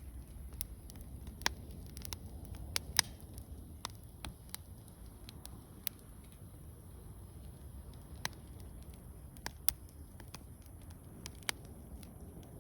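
Wood campfire crackling: scattered sharp pops at irregular intervals over a low, steady rumble of the burning fire.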